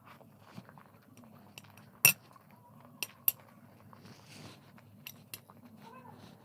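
Cutlery clinking against a dish while eating: a handful of sharp clinks, the loudest about two seconds in, then pairs around three and five seconds.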